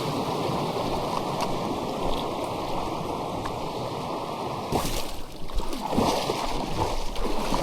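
River water flowing steadily, with irregular splashing and knocks starting about five seconds in.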